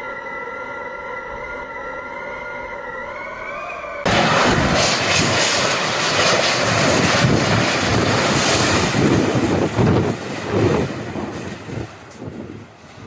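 A steady whistling tone with overtones, its pitch creeping up, then cut off abruptly about four seconds in by loud, gusting storm wind buffeting the microphone, which eases somewhat near the end.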